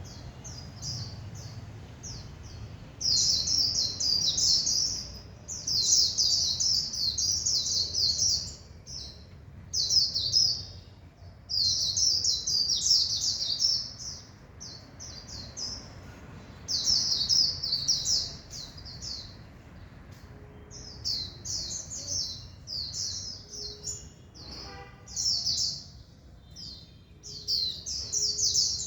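White-eye (vành khuyên) singing: rapid, high-pitched warbling phrases of one to three seconds, repeated many times with short pauses between them.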